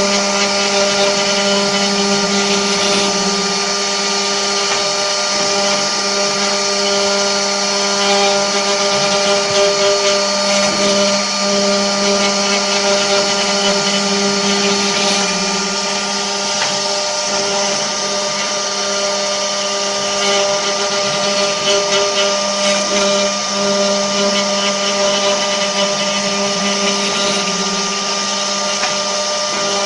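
The spindles of an 8-spindle 4-axis CNC wood router running together: a steady whine made of several fixed tones over a hiss, swelling slightly now and then.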